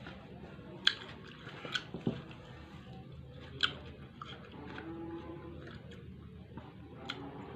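A person chewing and biting food close to the microphone, with four sharp clicks, the loudest about a second in and midway.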